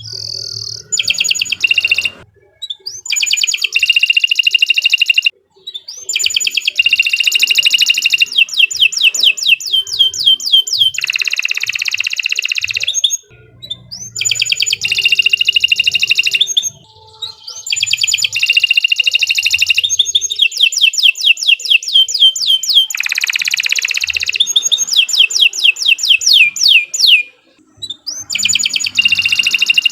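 Domestic canary singing long phrases of rapid, high trills and fast repeated sweeping notes, broken by brief pauses every few seconds.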